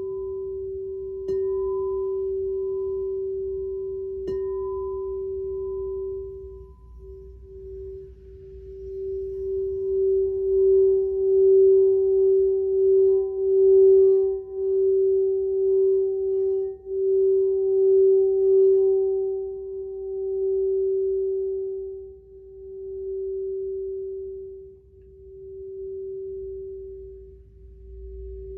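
A singing bowl rings one steady tone. It is struck again about a second in and about four seconds in. From about eight seconds it swells without a new strike and pulses loudly, then fades in slow, wavering swells toward the end.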